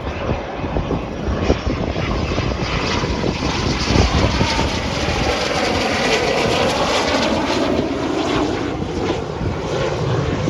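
Aircraft flying past the airshow crowd, its engine note falling steadily in pitch as it passes, over a loud low rumble. Gusts of wind thump on the microphone early on.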